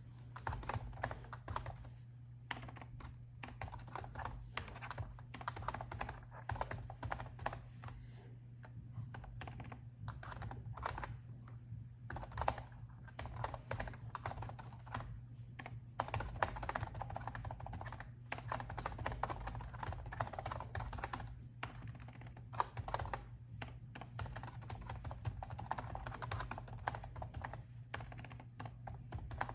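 Steady typing on a laptop keyboard: quick runs of keystrokes broken by brief pauses, starting about half a second in.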